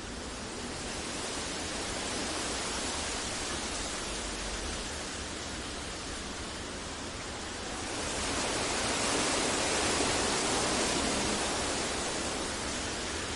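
Steady synthetic masking noise, an even hiss with no tones or events, made for sleep and focus. It swells a little louder about eight seconds in, then eases back slightly.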